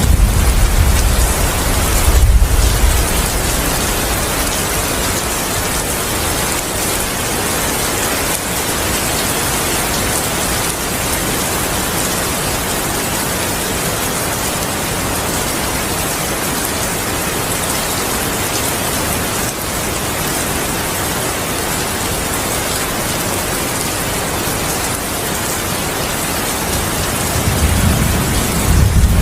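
Heavy rain falling steadily, an even hiss. Low thunder rumbles through the first couple of seconds, and another roll of thunder builds near the end.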